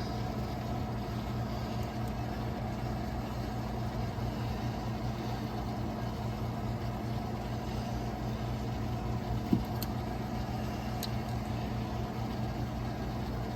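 Steady low machine drone, with a single short knock about nine and a half seconds in and a couple of faint clicks soon after.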